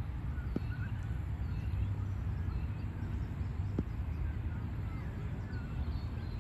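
Birds chirping repeatedly over a steady low rumble, with two faint knocks, one about half a second in and one near four seconds.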